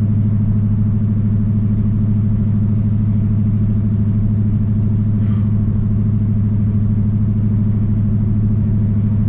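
Dodge Hellcat's supercharged 6.2-litre HEMI V8 and drivetrain droning steadily at cruise-control highway speed, heard from inside the stripped cabin as an even, deep hum.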